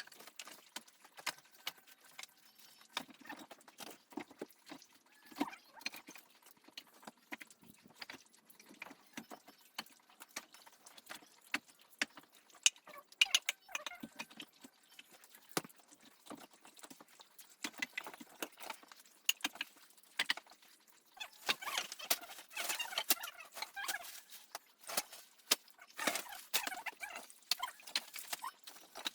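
Irregular knocks and clatter of hard objects being handled, with two longer stretches of scraping and rustling, about two-thirds of the way in and again near the end.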